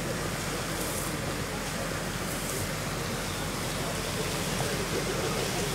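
Heavy demolition machinery's engine running steadily, a constant rumble with a noisy hiss over it.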